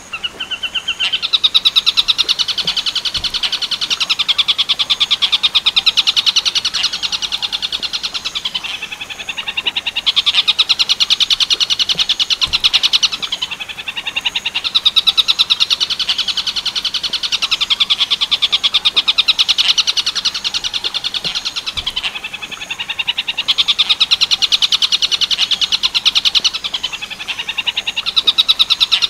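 Tengkek buto kingfisher song, the 'werkudoro' type: long runs of rapid, evenly repeated sharp notes, high-pitched and loud. The runs come in phrases several seconds long with brief pauses between them.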